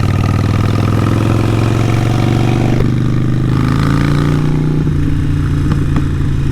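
Harley-Davidson Sportster 883 Iron's air-cooled V-twin running through a Vance & Hines exhaust while being ridden. Its pitch drops over the first few seconds as the revs come down, then holds steady at a lower, idle-like pace.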